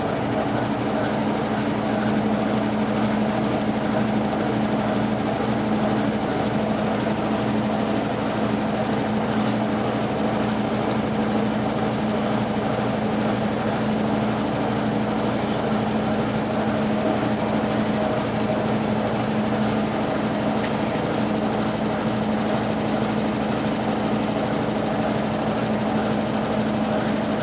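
Consul Facilite 10 kg top-load washing machine, fitted with a Brastemp BWL09 agitator, running its wash stage: a steady motor hum with the churning of the agitated load.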